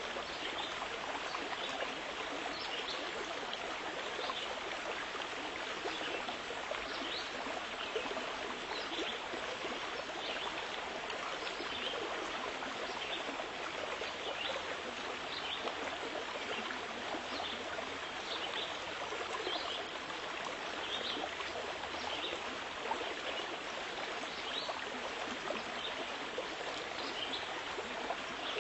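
Running water of a stream, a steady rush with small splashy flicks scattered through it.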